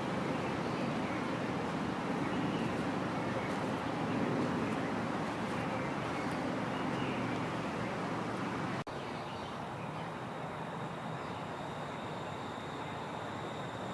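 Steady outdoor background noise, of the kind distant traffic makes. After a cut about nine seconds in it drops a little, and a thin steady high tone comes through.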